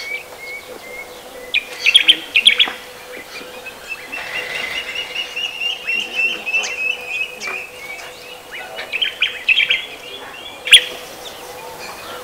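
Birds chirping: a long run of short repeated notes, with louder clusters of sharp chirps about two seconds in and again near the end, and one sharp click shortly before the end. A faint steady hum lies underneath.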